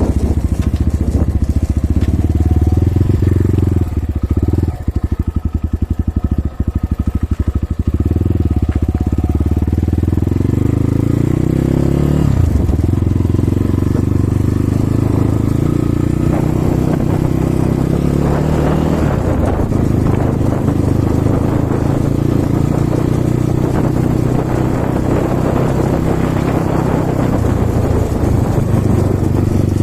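Kovi Advance 300 dirt bike's single-cylinder four-stroke engine running. About four seconds in it drops to a pulsing, uneven idle for a few seconds, then pulls away again, its pitch falling and rising with speed changes.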